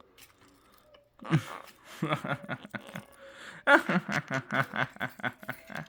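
A voice chuckling and laughing in quick repeated bursts, starting about a second in and getting faster and louder in the second half.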